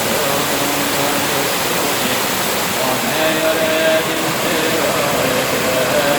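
Valley stream rushing steadily over rocks. Faint chanting holds long notes underneath.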